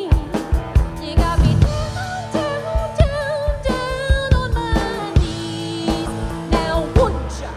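Live rock band playing a song: a drum kit beating out a steady rhythm under electric guitar and sustained, wavering melody lines.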